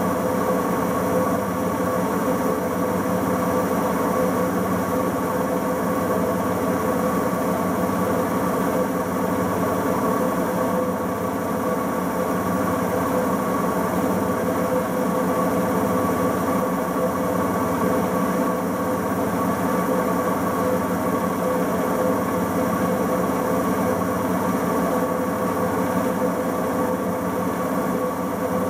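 Bosch Logixx WAS32461 washing machine spinning at a steady speed during its intermediate spin, labelled 1000 rpm, with a steady motor whine and a low pulse about once a second.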